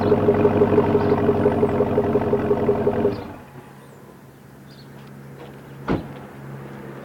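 Chevrolet TrailBlazer SS V8 through a Corsa cat-back exhaust, running at raised revs with a pulsing exhaust note, then dropping suddenly to a low, steady idle about three seconds in. A single sharp click comes near the end.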